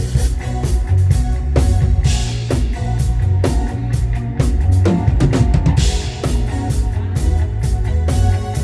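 Live praise music with the drum kit to the fore: a steady groove of bass drum, snare and cymbals over sustained pitched notes from the rest of the band.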